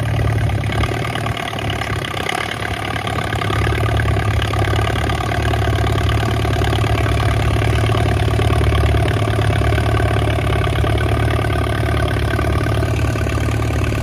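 Allis-Chalmers C high-drop tractor's four-cylinder engine running steadily, growing a little louder a few seconds in.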